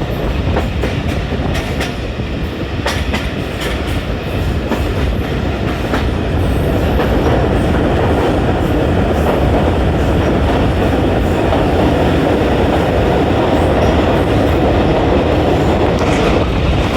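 Train running on the rails, wheels clattering over rail joints with scattered clicks, the noise growing louder about seven seconds in.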